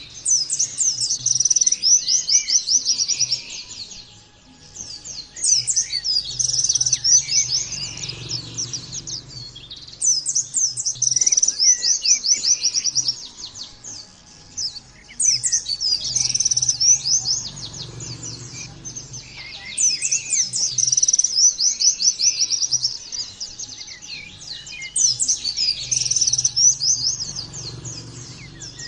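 A pleci (white-eye) singing in fast, high twittering phrases, each about three seconds long, repeated roughly every five seconds.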